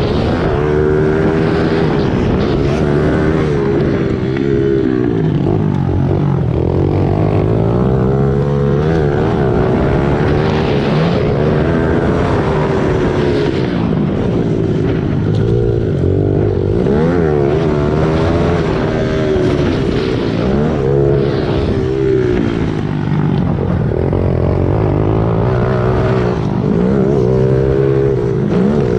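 Small single-cylinder four-stroke pit bike engine being ridden, revving up and dropping back over and over as it works through the gears and the corners.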